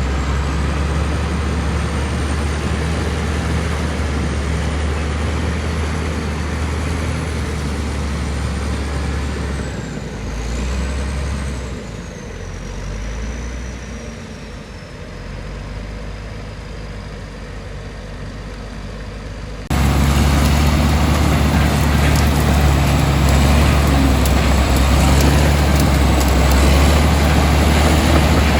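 Komatsu D65E bulldozer's diesel engine running steadily under load, with a faint high whine that drifts slowly down in pitch. About ten seconds in the engine note eases and quietens, then about twenty seconds in it comes back suddenly louder.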